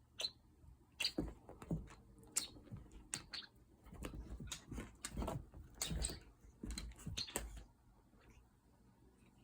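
A cat playing with a toy: irregular taps, rustles and soft thumps for several seconds, then the noise stops near the end.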